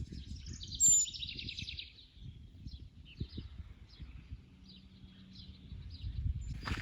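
Wild birds singing and chirping, with one loud, fast trill from about half a second to two seconds in, over a low uneven rumble.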